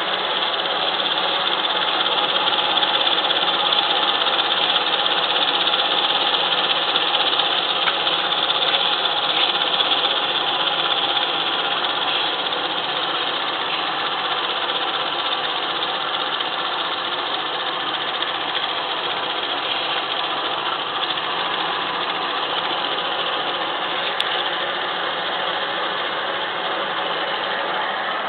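Steam engine running steadily, a continuous even hiss with no clear beat, easing off a little about eleven seconds in.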